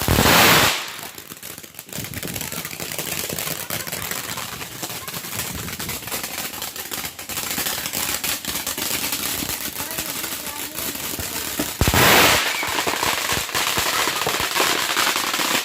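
Consumer fireworks going off: rapid crackling and popping throughout, with two louder blasts, one right at the start and one about twelve seconds in.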